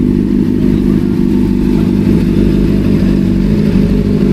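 Honda CBR650R's inline-four engine running loud and steady at an even speed.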